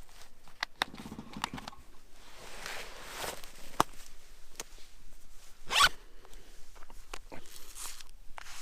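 Handling noise: short zip-like swishes and scattered small clicks, the loudest swish about six seconds in.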